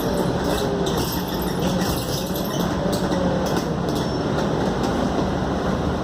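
Interior noise of a Scania K280UD double-decker bus under way: a steady engine drone with road noise, light rattles from the body and a faint whine that rises and falls.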